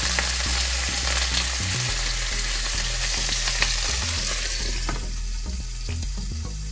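Fish head pieces frying in smoking-hot mustard oil: a dense sizzle with sharp crackles and spits of oil. The sizzle eases and the hiss thins about five seconds in.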